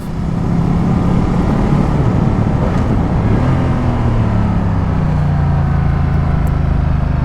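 Ducati Multistrada 1200's L-twin engine running under way, heard with wind and road noise on the rider's microphone. Its note rises about halfway through, then slowly falls.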